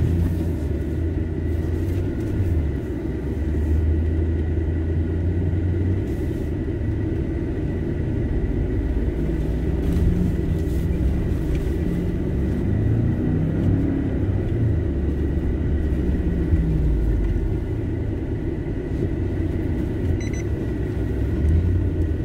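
Nissan Y62 Patrol's 5.6-litre V8 running at low speed, heard from inside the cabin while crawling along a rough dirt track. The engine note rises and falls with the throttle, most of all in the middle of the stretch.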